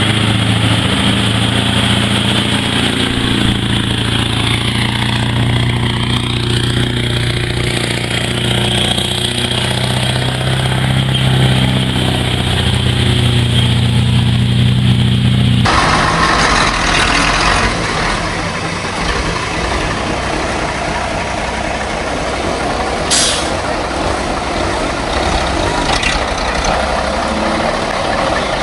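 Heavy logging truck's diesel engine running steadily under load. About halfway through the sound cuts abruptly to another truck, with rougher engine and road noise and a short air-brake hiss near the end.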